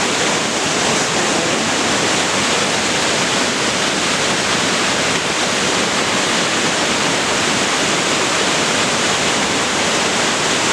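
A tall waterfall, about 120 feet from top to bottom, pouring down in a loud, steady, even rush of falling water.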